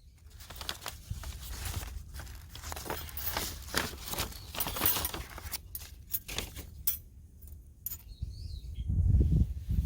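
Thin titanium stove parts being handled and fitted together: light metallic clinks and rattles over rustling, with a low rumble of handling near the end.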